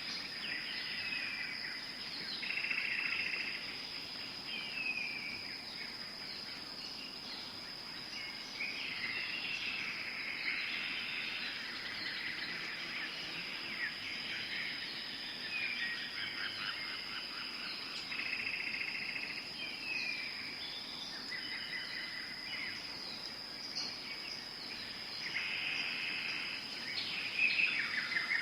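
Tropical forest ambience: a steady high-pitched insect drone with many birds calling over it, including short falling whistles and quick trills that come and go.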